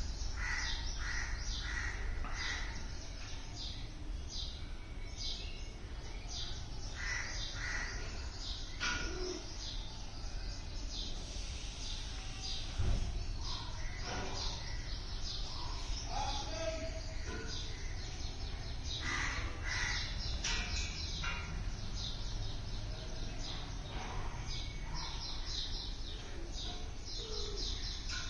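Birds chirping and calling over and over in short bursts, over a steady low background rumble, with a single sharp knock about thirteen seconds in.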